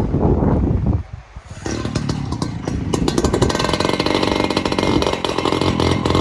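Wind buffeting the microphone, then about a second and a half in a small engine starts running steadily and loudly.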